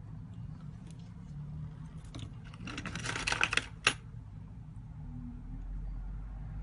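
A quick run of small, light clicks lasting about a second, ending in one sharp click, over a steady low hum.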